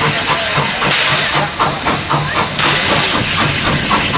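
Steam locomotive hissing loudly and steadily as steam escapes.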